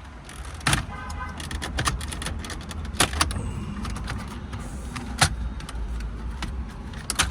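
Sharp plastic clicks and knocks, about four spread through, as dashboard trim panels are pried loose and handled, with a brief squeak about a second in, over a steady low rumble.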